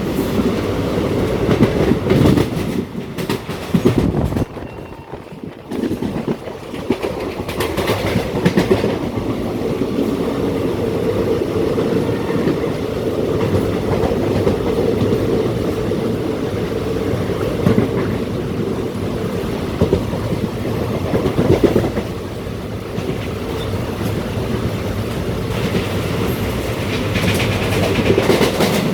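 Steady rumble of a vehicle in motion, with scattered clattering, easing off briefly about five seconds in.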